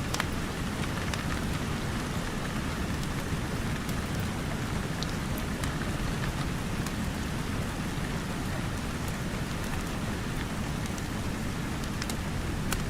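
Steady rain falling on a roof and windows, with a few sharp crackles and pops from a wood fire scattered through it.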